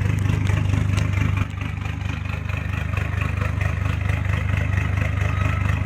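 Mitsubishi Triton L200 engine idling through a 3-inch Rhino exhaust with no muffler, with a lumpy, truck-like note. The idle drops slightly about a second and a half in. The lumpiness comes from the engine being cold; it only does that when it's cold.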